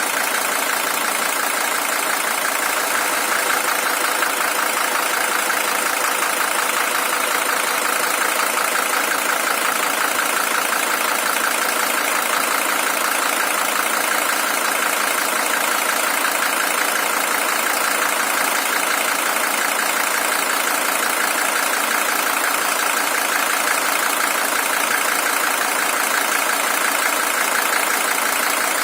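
Mercedes-Benz OM617 five-cylinder diesel engine idling steadily with an even diesel clatter. It is the original engine, with 620,000 km on it.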